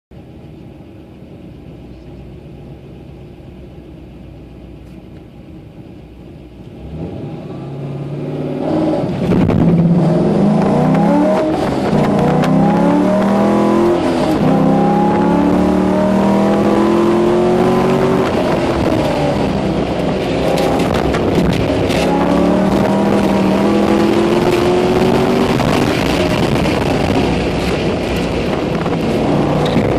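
C5 Corvette V8 heard from inside the cabin. It runs quietly at first, then launches about seven seconds in and pulls hard, the revs climbing and falling again and again as it accelerates, shifts and eases off through the course. Wind and road noise come in with the speed.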